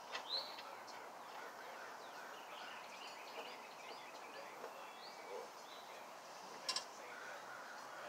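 Faint birdsong, scattered short chirps over a low background hiss, with a sharp double click about two-thirds of the way in.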